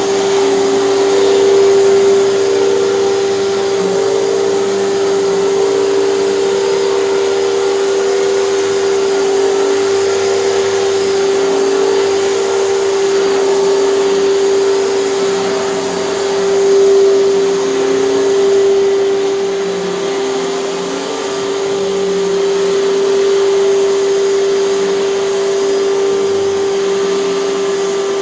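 Hoover canister vacuum cleaner running steadily, its motor giving a strong steady whine over the rush of air, with slight swells in loudness now and then.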